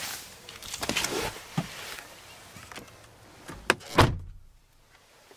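Clicks and rustling of handling around the vehicle, then a car door is shut with a solid thump about four seconds in, after which the sound turns quiet and closed-in.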